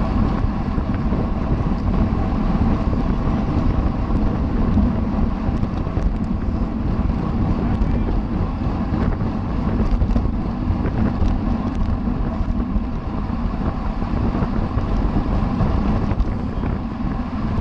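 Steady wind rush buffeting the microphone of a camera on a racing bicycle moving at speed.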